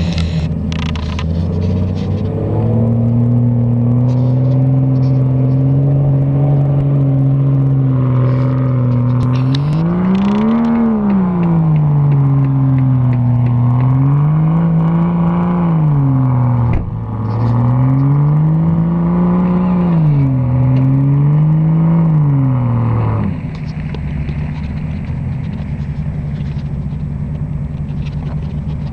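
Off-road 4x4's engine working up a steep muddy climb: it runs at steady revs, then revs up and down four times, with a brief dip partway through. Near the end it falls back to a lower, quieter idle.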